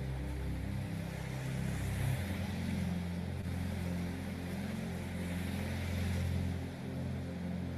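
Ambient meditation background track: low sustained drone tones that move to a new chord about two seconds in, under a soft rushing hiss that swells and fades like ocean waves.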